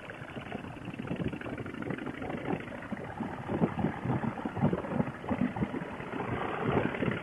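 V-twin cruiser motorcycle engine running while riding, mixed with wind buffeting a helmet intercom microphone. It has the thin, cut-off sound of a Bluetooth headset.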